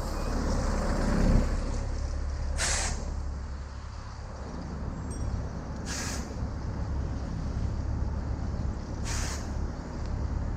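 City street traffic with a steady low rumble of wind on the microphone while riding. A short, sharp hiss recurs about every three seconds, and a louder low whoosh passes about a second in.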